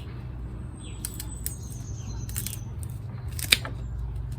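A few sharp snips of a cutting blade trimming the ends of dried sedum stems, the loudest near the end.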